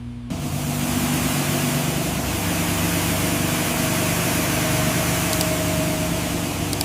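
A machine starts abruptly and runs steadily, a loud hiss over a low motor hum.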